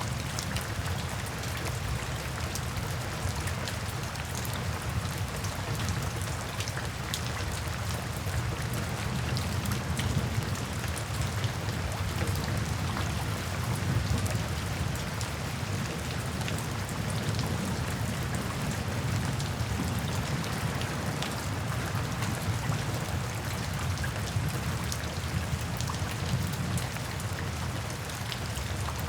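Steady rain falling into puddles and standing water, a constant hiss with many individual drops pattering on the water.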